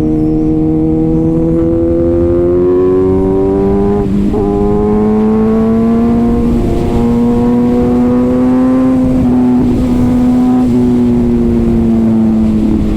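Kawasaki ZX-6R inline-four with an Arrow titanium exhaust under way, its note climbing steadily as it pulls, breaking briefly for an upshift about four seconds in, climbing again, then easing off over the last few seconds with short dips.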